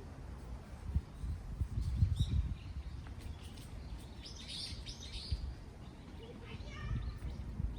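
Wind buffeting the microphone in gusts, with small birds chirping: a burst of high chirps about halfway through and a quick run of chirps near the end.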